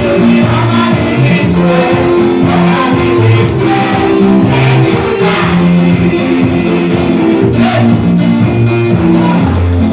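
Live gospel band music: electric guitar and bass guitar playing a steady, rhythmic groove with a beat, possibly with some singing underneath.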